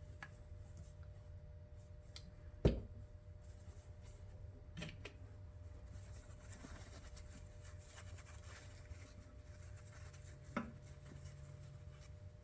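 Quiet bench handling of small parts: soft rubbing with a few sharp taps and clicks, the loudest about two and a half seconds in, over a low steady hum.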